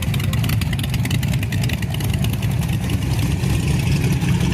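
Car engine with a loud exhaust rumbling steadily at low revs, its firing pulses coming fast and even.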